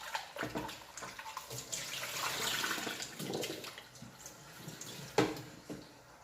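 Water running and splashing as things are washed by hand, with light clattering and one sharp knock about five seconds in.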